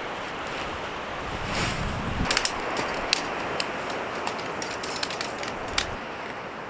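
Strong wind blowing steadily, with a gust swelling about one and a half seconds in. A scatter of sharp clicks runs from about two seconds in until near the end.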